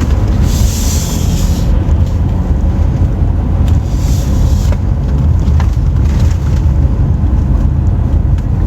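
Steady low road-and-engine rumble of a car being driven, with two short hissing swells about half a second and four seconds in.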